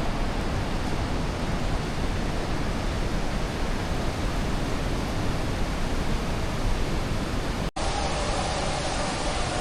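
Steady, even rushing noise, of the kind made by falling water or wind. About three-quarters of the way through, the sound cuts out for an instant and then carries on.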